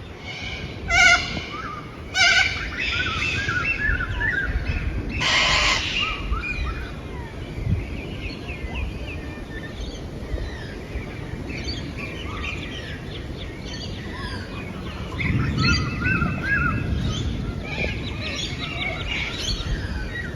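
Wild birds calling. Two loud harsh calls come about a second and two seconds in, and a longer harsh screech about five seconds in, with busy twittering chirps throughout over a steady low background noise.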